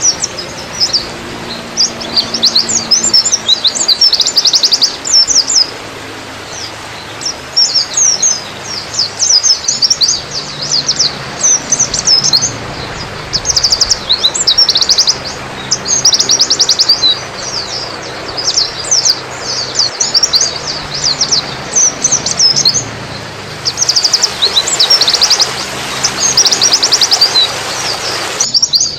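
White-eye (pleci) singing: rapid, high-pitched twittering trills in repeated bursts with short pauses, over a steady background hiss.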